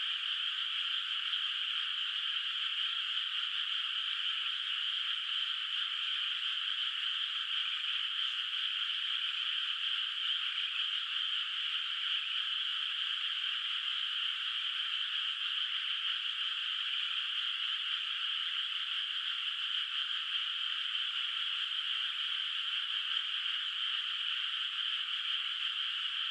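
Chorus of many frogs calling in a flooded rice paddy. It blends into one steady, unbroken, high-pitched din, with no single call standing out.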